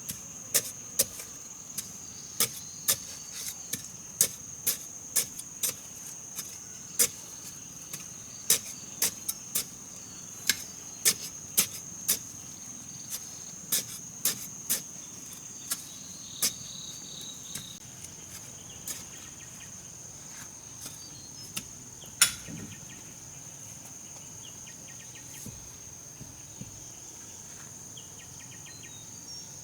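Sharp knocks of tool strikes on wood, irregular, about one or two a second for the first half, then sparser, with one loud strike a little past two-thirds of the way through. A steady high-pitched insect drone runs underneath.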